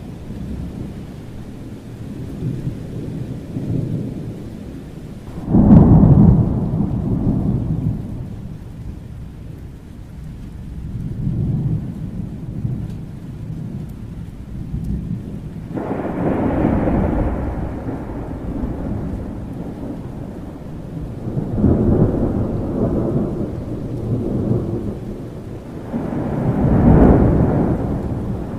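Thunderstorm with rain: a continuous low rumble of thunder over steady rain. A sudden loud thunderclap comes about five and a half seconds in and is the loudest moment, and more rolls of thunder swell up near the middle, later on and near the end.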